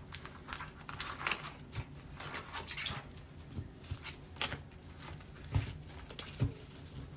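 Tarot cards being handled and shuffled: irregular soft clicks, taps and rustles.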